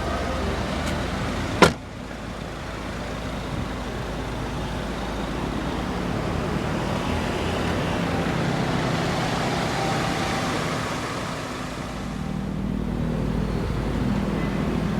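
A single sharp thump about two seconds in, then a steady motor-vehicle rumble with a low hum that rises and falls a little.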